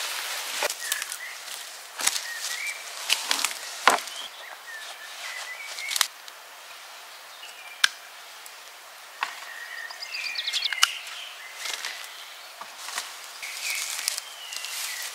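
Small birds chirping in short calls, with a quick trill about ten seconds in, over a scatter of rustles, scrapes and sharp knocks.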